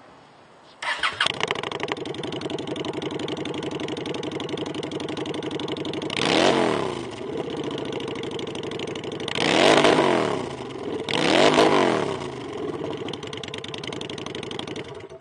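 Fuel-injected 750cc V-twin of a Honda Shadow Phantom motorcycle, fitted with a short Vance & Hines muffler, starting about a second in after a brief crank and settling into a steady idle. It is revved three times, each a quick rise and fall in pitch, and cuts off near the end.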